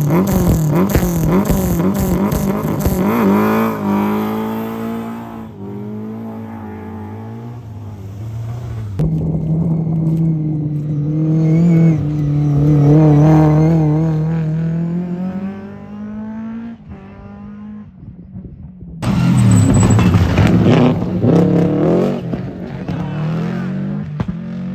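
Historic rally cars passing at speed on a stage, engines revving hard with the pitch rising and dropping through gear changes. Three separate passes, with abrupt cuts about 9 and 19 seconds in.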